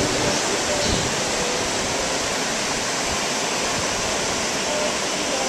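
Steady noise of surf and wind buffeting the microphone: an even hiss at a constant level with no breaks.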